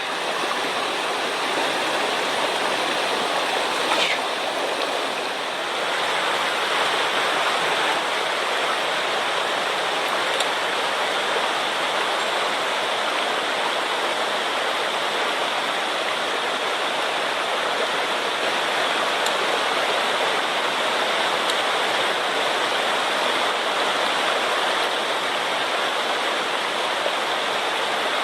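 Swollen mountain stream rushing steadily, high water after a typhoon, with a faint click about four seconds in.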